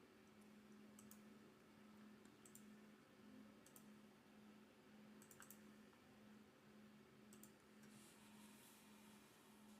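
Near silence with faint computer mouse clicks, single or paired, about every second or so, over a low steady hum.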